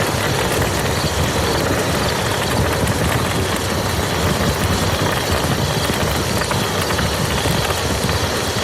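Steady rain falling on a muddy field: a dense, even patter of drops with a low rumble underneath.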